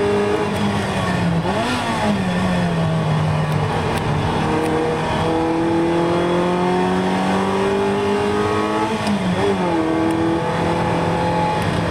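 Ferrari 328's mid-mounted 3.2-litre V8 heard from inside the cabin, pulling steadily at moderate revs. The engine note dips and briefly flares twice, about 1.5 s and 9 s in, as at gear changes, and climbs slowly in between.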